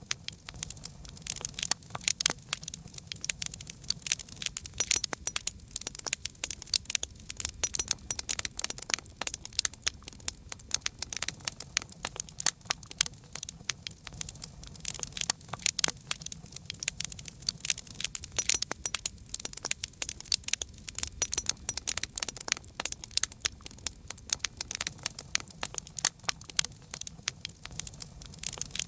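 Wood fire crackling: dense, irregular snaps and pops over a low steady rumble of burning.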